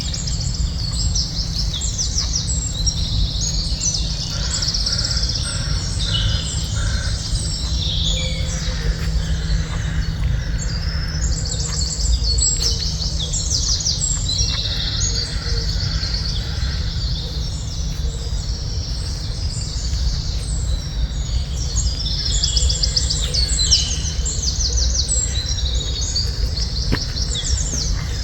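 Several birds chirping and singing at once in a dense, overlapping chorus of high trills and twitters, with a short run of lower repeated notes about four seconds in. A steady low rumble lies underneath.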